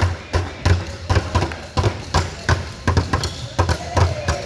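A basketball bouncing on a gym floor, about three bounces a second, each a sharp thud with a low boom.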